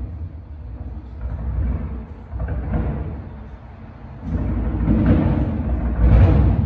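Aerial fireworks going off: a string of deep booms with rolling rumble between them, growing heavier and louder in the last couple of seconds.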